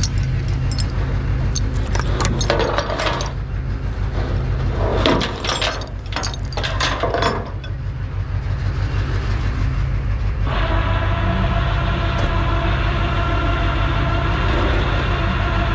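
A Ford 6.0 Power Stroke diesel truck engine idling steadily, with metal clinks and rattles in the first half. From about ten seconds in, a steady higher whine joins the engine.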